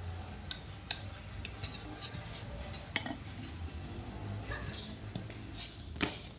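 Scattered small clicks and light clinks over a steady low room hum, with louder hissing rustles near the end.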